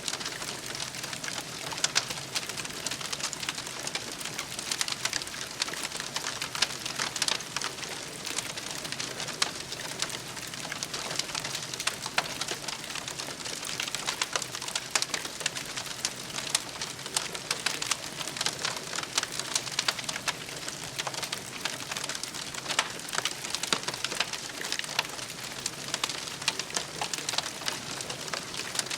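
Wood campfire burning with a dense, continuous crackle of small pops and snaps over a soft hiss.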